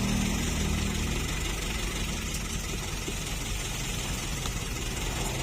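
Toyota Dyna dump truck's diesel engine running steadily at idle.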